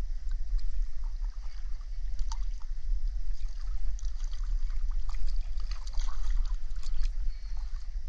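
Water splashing and trickling around a small boat on a river, with irregular short splashes such as a paddle dipping, over a steady low rumble.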